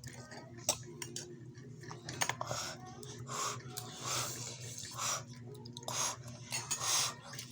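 A person drinking juice in a run of gulps, about one a second, over a steady low hum.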